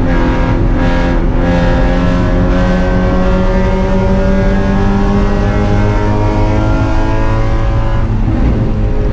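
Spec Miata's four-cylinder engine pulling hard under full throttle, its pitch climbing steadily for about eight seconds, then dropping near the end with a gear change.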